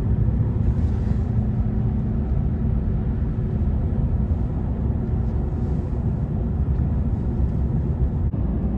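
Steady low rumble of a four-wheel-drive vehicle driving: engine and tyre noise.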